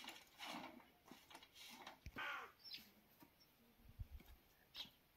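Faint, quiet ambience with scattered short bird chirps and calls, one of them a brief bending call about two seconds in, and a few soft low thuds.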